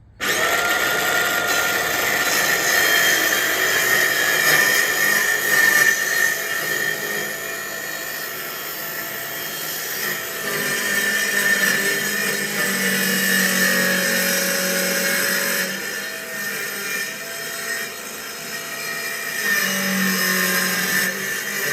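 Power tool running continuously with a high whine, its tone shifting several times as it works.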